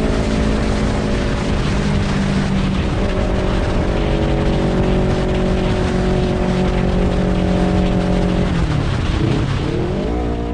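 Honda CBR250RR motorcycle engine revving through an R9 H2 titanium full-system exhaust. The revs hold steady for several seconds, then drop and climb again near the end.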